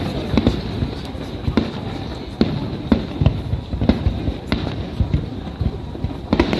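Aerial fireworks shells bursting in quick, irregular succession, several bangs a second over a continuous low rumble of booms echoing across the harbour.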